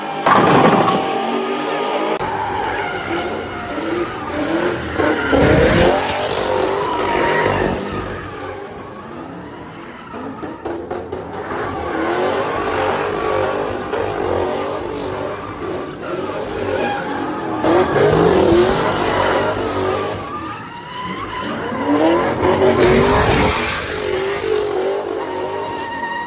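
Car engines revving up and down in repeated waves with tyres squealing and skidding on pavement, with several loud surges.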